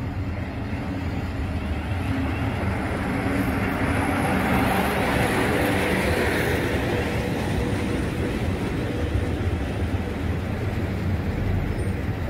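Passenger train running along the platform: a steady rumble of wheels on rails, with a hiss that builds to its peak in the middle and eases away, and a faint high whine a few seconds in.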